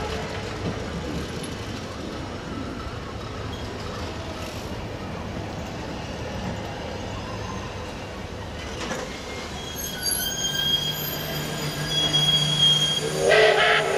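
Passenger carriages rolling slowly past on the rails as the train slows to a stop. In the last few seconds the wheels and brakes give a steady high squeal. Just before the end a loud chord of several tones starts.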